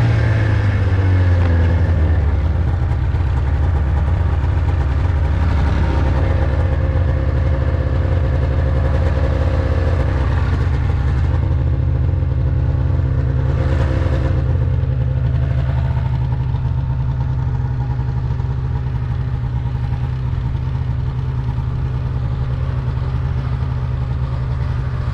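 Vehicle engine running steadily under load. Its pitch drops over the first two seconds as it slows, then holds even.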